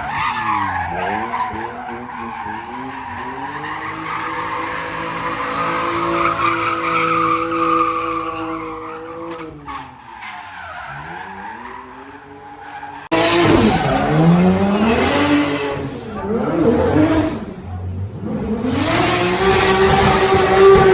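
Drift car sliding, its engine revving up and down over squealing tyres. About thirteen seconds in the sound cuts abruptly to a louder, closer stretch of the same engine revving and tyre squeal.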